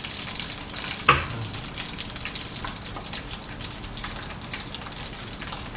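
Green onions sizzling in oil in a frying pan on low heat: a steady crackling hiss, with one sharp click about a second in.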